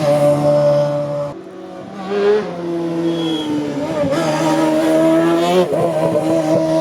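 Race car engine on a hillclimb run, held at high revs, easing off briefly about a second and a half in, then pulling hard again.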